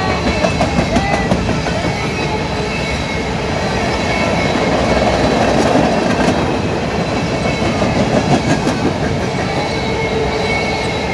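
Norfolk Southern freight train rolling past at a crossing, its steel wheels clacking in a steady rhythm over the rail joints under a continuous rumble of the cars.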